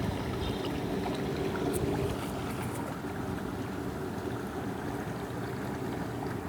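Steady rush of water from a small waterfall spilling into a pond, with a few faint ticks about two seconds in.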